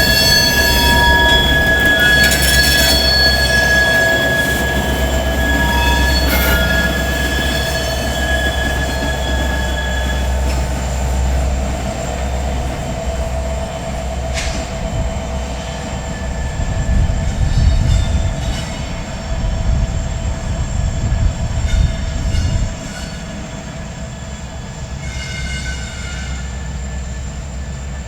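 Freight cars rolling slowly, steel wheels squealing against the rails in steady high tones for the first ten seconds or so, over a low rumble, with a few sharp clanks. A heavier low rumble builds in the second half and drops off abruptly a little before the end.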